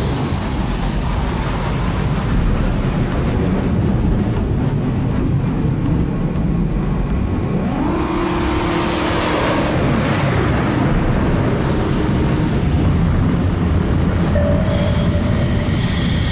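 Fighter jet engine running, a loud steady noise, with a rising sweep about eight seconds in and a few short steady tones over it near the middle and near the end.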